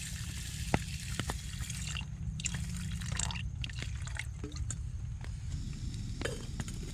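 Rain falling on a camping tarp, with scattered drops striking it as sharp taps over a steady patter and a constant low rumble.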